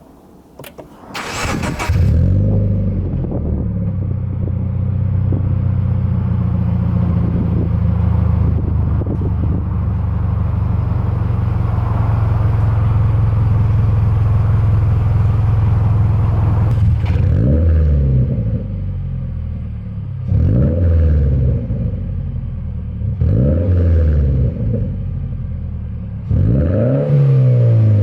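Toyota 86's flat-four boxer engine, through a GP Sports EXAS EVO Tune aftermarket exhaust, cranked and started about a second in, then idling steadily. In the second half it is blipped in neutral four times, each rev rising and falling back to idle.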